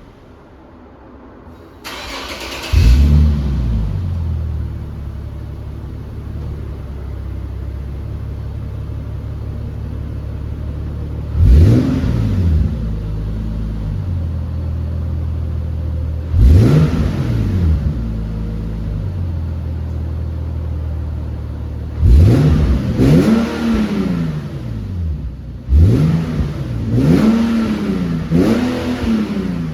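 Nissan Fairlady Z Version NISMO's 3.7-litre V6 through its NISMO exhaust, started with a sharp flare of revs, then idling steadily. It is blipped to rise and fall, once, then again, then twice in quick succession, then three times in a row near the end.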